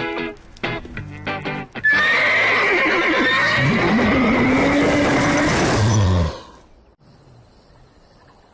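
Cartoon soundtrack: a run of short pitched notes, then a loud drawn-out animal cry over music for about four seconds. The cry cuts off about six seconds in, leaving only faint sound.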